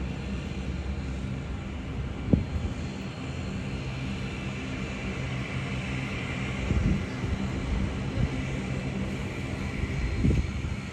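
Jet airliner engines running with a steady low rumble, a high whine swelling and fading in the middle. A few short thumps stand out over it, the sharpest about two seconds in.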